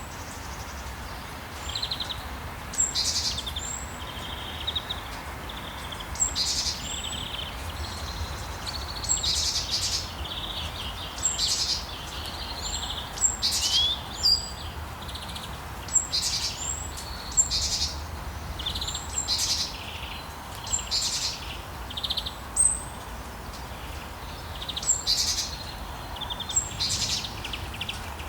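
Birds chirping, with short calls repeating every second or two, over a steady hiss of rain.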